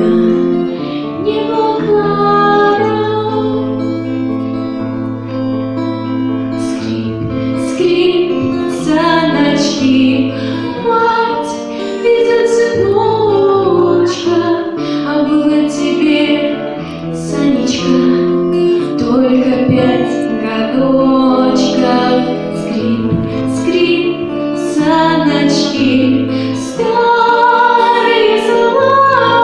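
A song with a woman singing over instrumental accompaniment, with a steady beat about once a second.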